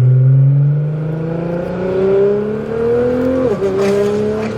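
Nissan R35 GT-R's twin-turbo V6 running through a Fi valvetronic exhaust with its valves open, accelerating hard. The engine note rises steadily, drops sharply with an upshift about three and a half seconds in, then climbs again.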